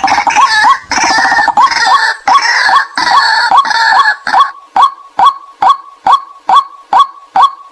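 White-breasted waterhens calling: a steady run of short, hooked notes about three a second, with a harsher chorus of overlapping calls on top for the first four seconds or so.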